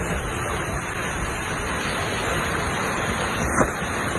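Steady rushing road and wind noise from inside a moving car, with one sharp knock about three and a half seconds in.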